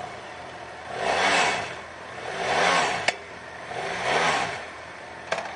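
BMW F650GS's 798 cc parallel-twin engine idling and being revved three times, the pitch rising and falling with each blip of the throttle.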